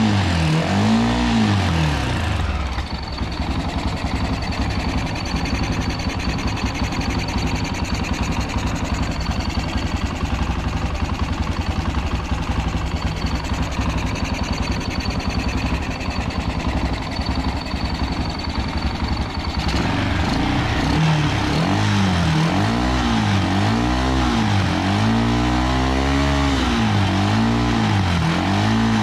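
Rebuilt Honda NX250 (AX-1) 250cc single-cylinder engine running. It is blipped a couple of times, settles to a steady idle, then is blipped again and again in regular revs from about two-thirds of the way through.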